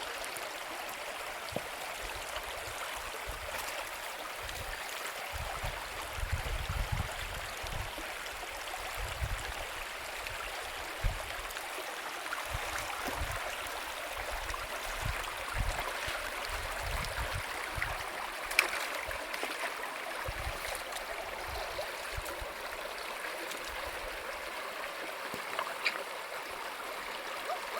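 Stream water running over rocks, a steady rushing. A few sharp clicks or knocks sound here and there, the loudest about two-thirds of the way in, with low rumbling bumps through the middle stretch.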